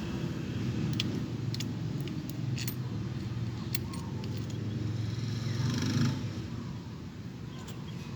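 Steady rumble of highway traffic, with a vehicle passing about six seconds in. A few sharp metallic clinks of tools or parts are handled during the first four seconds.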